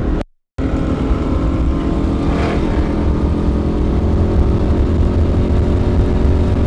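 Hemi V8 running through a Flowmaster exhaust: a loud, steady, deep exhaust rumble. The sound drops out for a moment about a quarter second in, then carries on.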